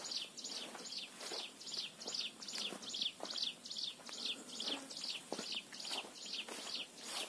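A bird calling a steady run of short, high notes that each slide downward, about three a second.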